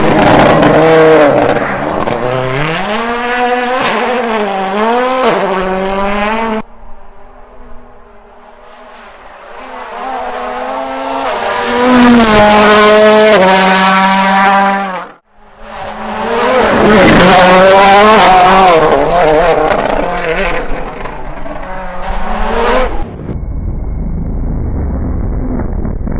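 World Rally Cars' turbocharged four-cylinder engines at full throttle, revving up and down through rapid gear changes, in several short clips. In one, a car is heard approaching from afar and rising to a loud pass. Near the end the sound turns to a duller, muffled low rumble.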